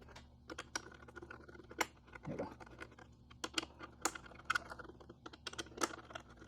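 Irregular light clicks and ticks, several a second: a hex key and bolts working as the luggage-rack leg bracket bolts are screwed in loosely by hand.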